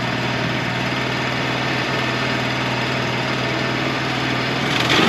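Wood-Mizer LT35 portable sawmill's engine running steadily. Just before the end the sound gets louder and brighter.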